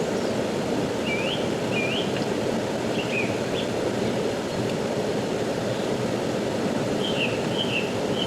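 Steady rush of a fast-flowing river or stream, with a small bird chirping short notes in two spells, one a second or so in and one near the end.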